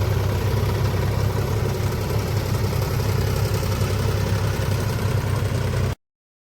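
Tractor diesel engine idling steadily with a low, even rumble. The sound cuts off abruptly about six seconds in.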